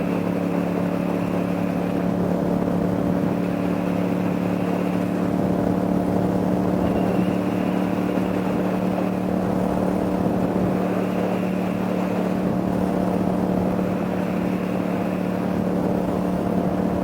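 Vehicle engine droning at a steady cruising speed, its pitch unchanging, with road and wind noise.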